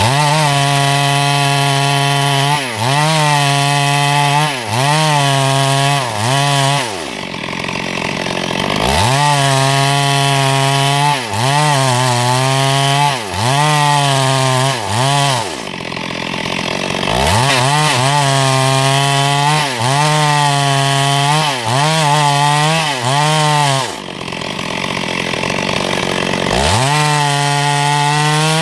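Chainsaw engine at high revs cutting wood, its pitch dipping briefly many times as the chain bites. It drops back to idle three times and revs up again each time.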